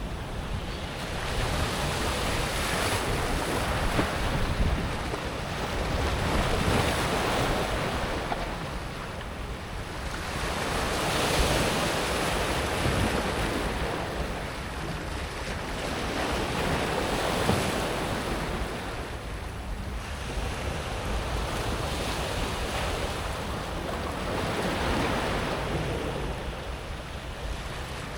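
Small sea waves washing up and back over a pebble beach, the sound of water running through the stones swelling and fading every few seconds.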